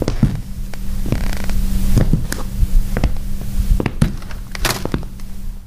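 A string of irregular knocks and creaks over a steady low hum.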